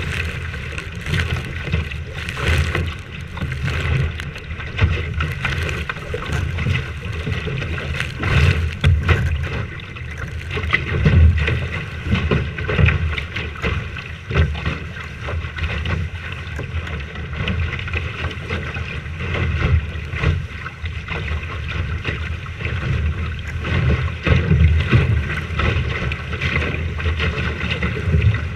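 Strong wind buffeting the microphone aboard a sailing boat: a low rumble that swells and drops with the gusts. A steady higher hum runs underneath.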